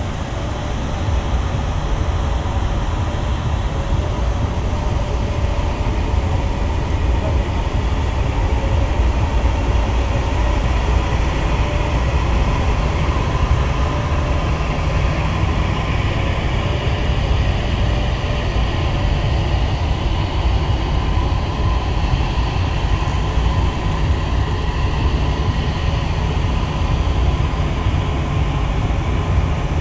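Steady low rumble of a vehicle in motion, heard from on board, with faint steady tones over it.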